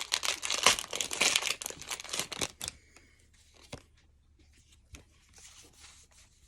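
Foil wrapper of a Pokémon booster pack crinkling and tearing as it is opened, for about the first two and a half seconds. Then it goes quiet, with a few soft clicks.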